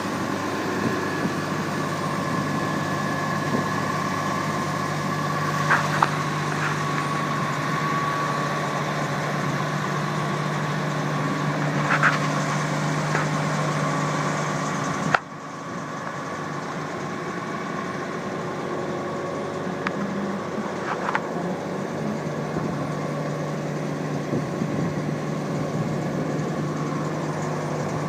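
Freightliner fuel truck's engine idling steadily. About halfway through there is a sharp click, and the sound drops noticeably quieter.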